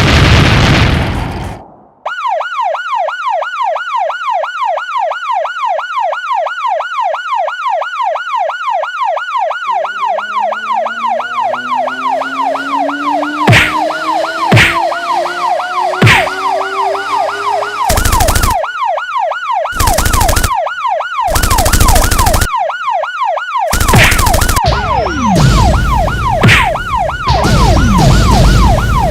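Cartoon sound effects: a boom fades out in the first two seconds. Then a siren wails in a fast up-and-down yelp, about two sweeps a second, and keeps going. Over the siren come a few sharp knocks and a run of loud crashing bursts in the second half.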